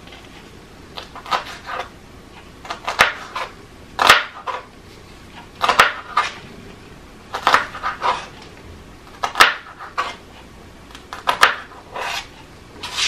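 Kitchen knife cutting vegetables on a cutting board: irregular sharp knocks and crunches, two to four strokes at a time, about every second or two.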